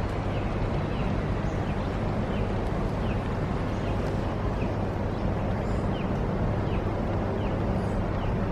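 A bird repeating a short, high, falling chirp about every three-quarters of a second over a steady outdoor rumble.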